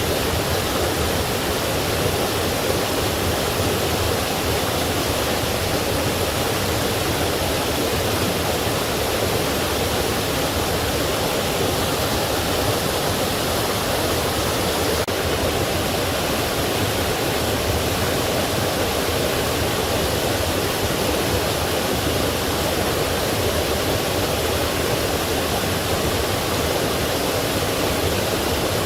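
Forest stream and small waterfall flowing steadily, a constant rush of water.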